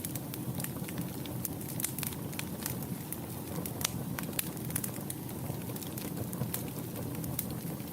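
Wood fire burning in a fireplace: a steady low rush of flames under frequent sharp crackles and pops, irregularly spaced.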